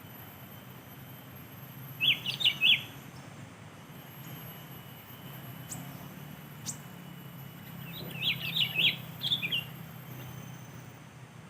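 Sooty-headed bulbul singing: two short phrases of quick notes, about two seconds in and again about eight seconds in.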